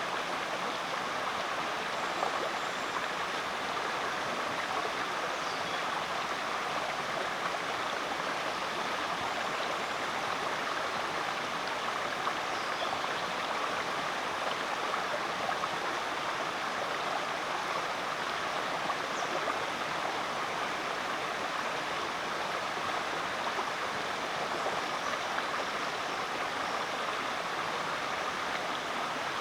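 A rainforest creek flowing over rocks, a steady rush and babble of water.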